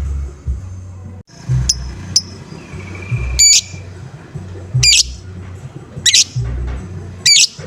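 Lovebird giving short, shrill 'ngoek' calls, about five in six seconds, over background music with a low pulsing beat.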